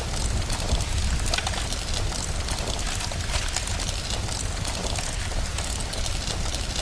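Wood fire crackling with frequent sharp pops over a steady hiss of rain and a low rumble.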